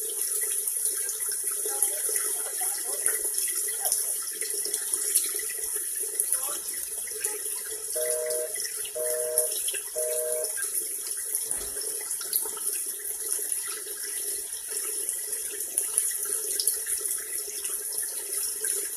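A steady hiss like running water, through which a telephone busy tone pulses three times, about half a second each, around the middle.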